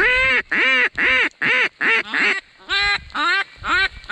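Hen-mallard-style quacking: a run of about nine loud, evenly spaced quacks, the later ones a little shorter.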